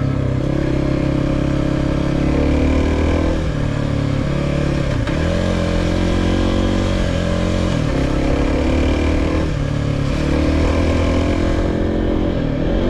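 2023 Kawasaki KLX300's single-cylinder four-stroke engine running under way on a dirt trail, its pitch falling and rising several times as the throttle is worked, with a clear dip and climb back about five seconds in.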